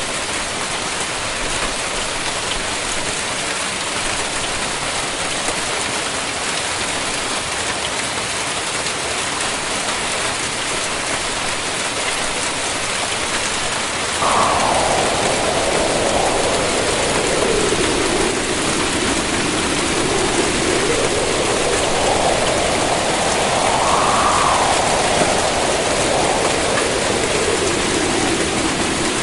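Heavy storm rain pelting surfaces in a steady, dense hiss. About halfway through, a wavering tone joins in, slowly rising and falling in pitch, and the whole gets slightly louder.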